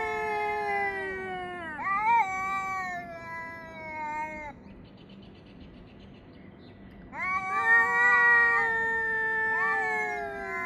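Cats yowling at each other: long, drawn-out, wavering yowls, each sliding slowly down in pitch. A pause of about two and a half seconds comes midway, then the yowling resumes, with two yowls overlapping near the end.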